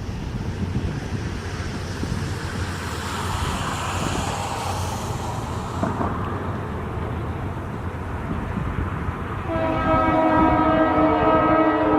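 Approaching diesel train rumbling, then about nine and a half seconds in its horn sounds a steady chord of several tones, held to the end and louder than the rumble.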